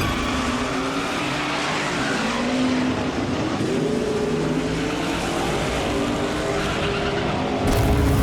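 A car engine revving hard at high speed, its pitch climbing a few seconds in, with tyres squealing.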